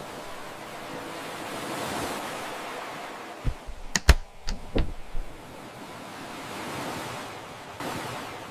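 Ocean surf washing in, swelling and easing off twice. A quick cluster of sharp knocks or thumps breaks in about halfway through.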